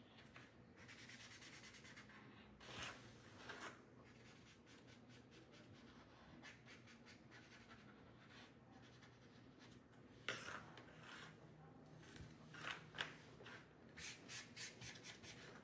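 Faint scratching and rubbing of a marker tip colouring a small train-car piece, in groups of strokes with a quick run of short back-and-forth strokes near the end.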